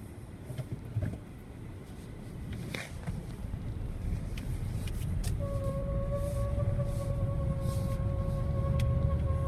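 Hyundai Creta 4WD pulling away in hard frost, with engine and road rumble rising steadily and a few light clicks in the first three seconds. About five seconds in, a steady high squeal starts from underneath the car and holds. The squeal is the cold-weather sign of a faulty driveshaft centre support bearing.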